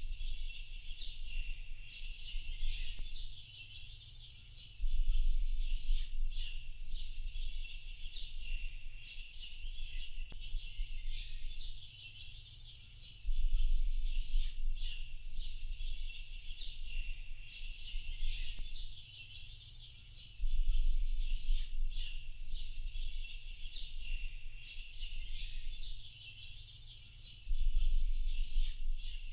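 Dense chorus of many birds chirping continuously. A low rumble swells up for a second or two about every seven seconds, the loudest part of the sound.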